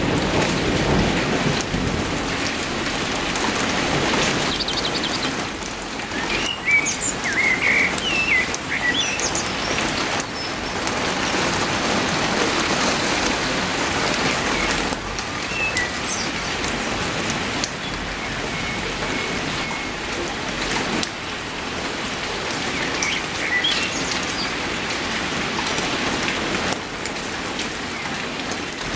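Heavy rain falling steadily. A few bird chirps come through the rain about a quarter of the way in and again near the end.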